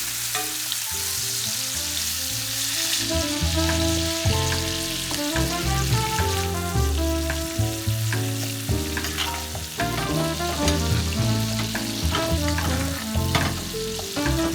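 Steak frying in butter in a pan, giving a light sizzle because the pan isn't hot enough to sear. The sizzle is louder for the first three seconds or so, under background music with moving bass notes.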